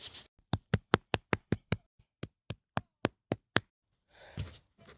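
A quick series of about a dozen sharp knocks, some four or five a second, then a short soft rustle.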